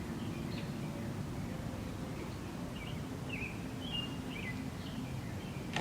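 Small birds chirping in short, high calls scattered through, over a steady low background rumble.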